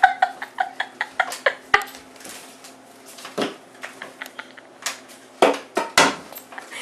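A clatter of small sharp clicks and knocks, thick in the first two seconds, then a few scattered louder knocks later on.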